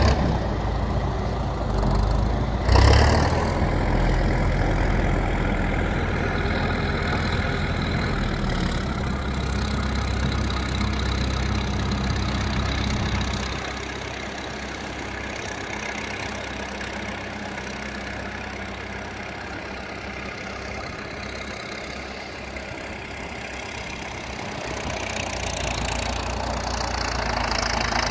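Tractor engine running steadily, with one sharp thump about three seconds in. The engine falls back quieter about halfway through and picks up again near the end.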